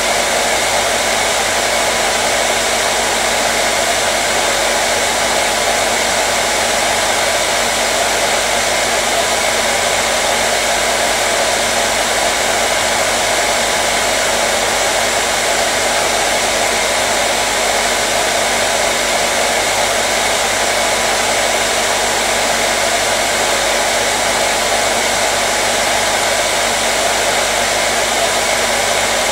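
Hair dryer running steadily: an even, unchanging rush of air with a low steady hum from the motor, played as white noise to soothe crying babies.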